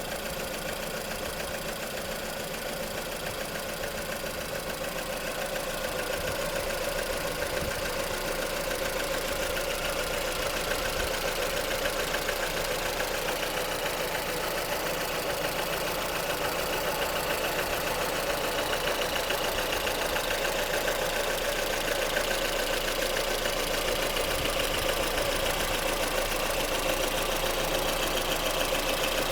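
Lada Kalina 1.6 eight-valve four-cylinder engine idling at operating temperature with a steady, rapid light knocking. The owner cannot tell whether it comes from the pistons or the camshaft.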